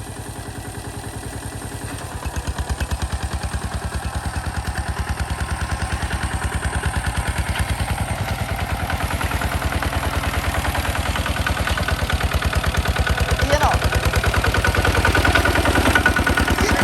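A hand tractor's engine running with a steady train of even firing pulses. About two seconds in it picks up and gets louder, then keeps growing slowly louder.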